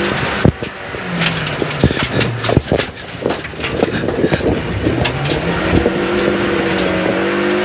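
Inside a Toyota Yaris SR rally car, its engine working hard through a tight corner. It drops back about half a second in, then pulls with rising pitch over the last few seconds as the car accelerates out. Frequent sharp knocks and rattles run throughout.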